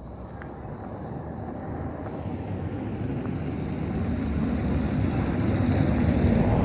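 Low engine rumble drawing closer, growing steadily louder, like a vehicle or aircraft approaching.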